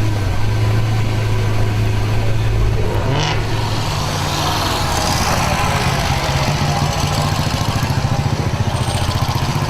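Car engine running with a deep, steady note. About three seconds in there is a short sharp sound, after which the engine note changes and climbs.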